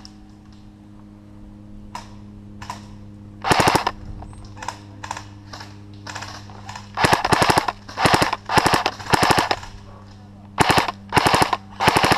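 Airsoft rifle firing short full-auto bursts of rapid shots, about eight bursts of under half a second each: one about three and a half seconds in, then a cluster in the second half. A couple of fainter single shots come about two seconds in, over a steady low hum.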